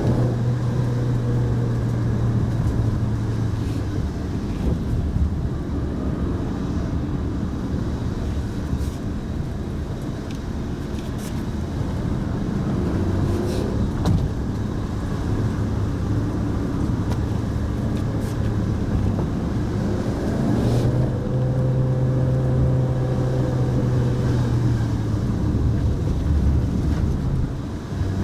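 Mitsubishi Pajero Mini kei car's engine running as it drives, heard from inside the car, with tyre and road noise; the engine note climbs about halfway through and again a few seconds later as it accelerates, and a few light knocks come from the road surface.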